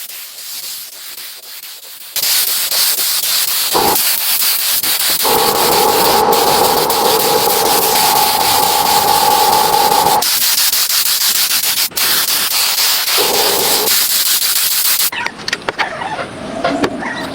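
Handheld power sander working over car bodywork. A loud, rough sanding noise starts about two seconds in. A motor hum rises out of it twice, long in the middle and briefly later, and the noise breaks up near the end.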